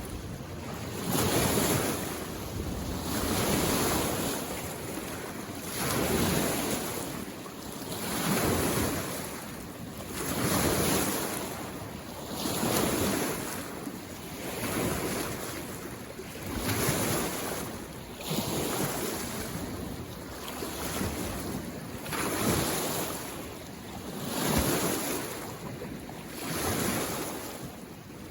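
Small waves on a lake washing in, one about every two seconds, each a rush that swells and fades.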